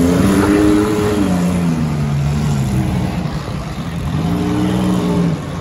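Demolition derby cars' engines revving in the arena, their pitch rising and falling as drivers get on and off the throttle, twice, near the start and again around four seconds in.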